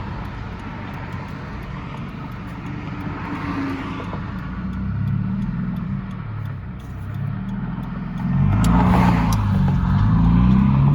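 Subaru BRZ flat-four engine running through a muffler-delete straight pipe, heard from inside the cabin while driving: a low, steady exhaust note. About eight seconds in it gets louder, its pitch wavering up and down.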